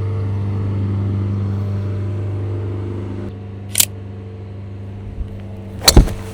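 Golf tee shot: one sharp crack of the club striking the ball near the end, with a fainter click a couple of seconds before it. A steady low hum lies underneath and drops in level about halfway through.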